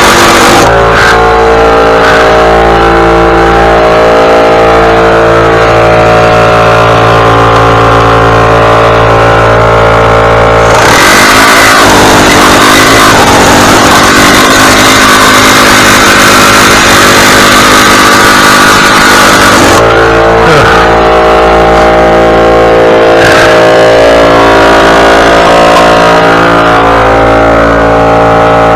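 Small petrol engine of lawn equipment running steadily, very loud and close, with a rougher, noisier stretch in the middle.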